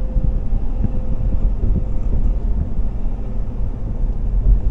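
Pickup truck on the road, engine and tyre noise heard from inside the cab as a steady low rumble.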